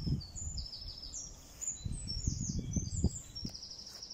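Small birds chirping and singing outdoors, a run of short high calls and trills one after another. Low muffled thumps and rumbles come through under them right at the start and again from about two seconds in.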